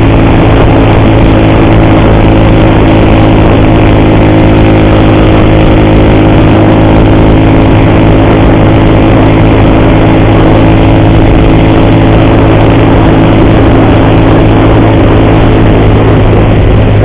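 Motorcycle engine running steadily at an even cruising speed, the pitch holding constant. The rider hears an ugly noise from the timing chain, which he fears is getting worse.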